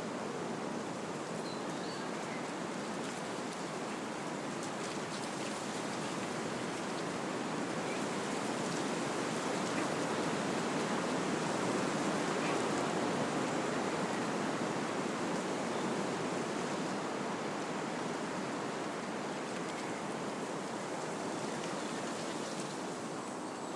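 Wind blowing through trees, a steady rush of moving leaves and branches that swells about halfway through and eases again.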